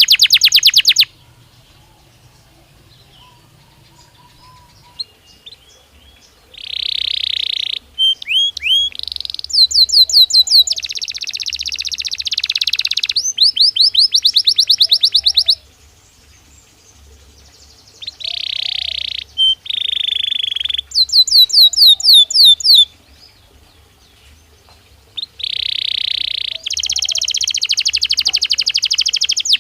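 Belgian canary singing in phrases of fast trills, each a rapid run of repeated notes, some clear and some buzzy. The song breaks off just after the start, resumes several seconds in, and pauses twice more for a few seconds.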